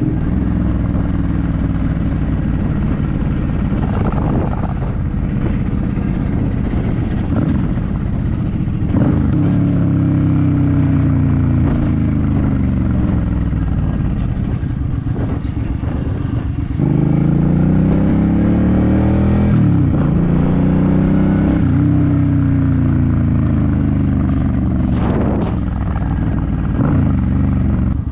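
Suzuki C50 motorcycle's 805 cc V-twin engine under way, its pitch rising and falling over and over as the bike speeds up and eases off through the gears. About two-thirds of the way in the engine sound jumps suddenly higher and louder.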